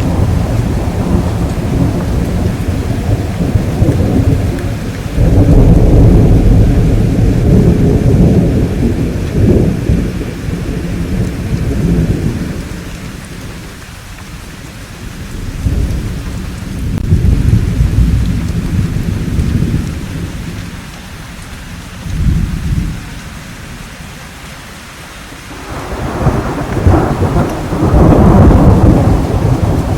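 Thunderstorm: deep rolling thunder that swells and fades in several long rumbles over steady rainfall. The rumbles build near 5 s, 16 s and 26 s, with quieter stretches of rain between them.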